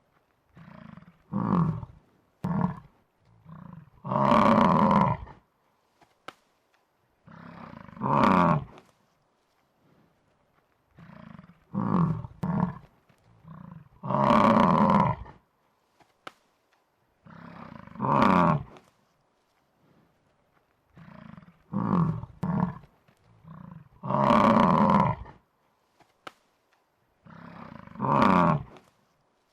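Buffalo bellowing, a looped sound effect. Short grunts build to a long, loud bellow about every four to five seconds, and the whole sequence repeats identically about every ten seconds.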